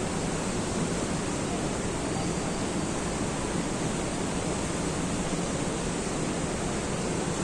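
Steady, unbroken rush of water pouring down the Shushtar waterfalls, the cascades of the ancient hydraulic system.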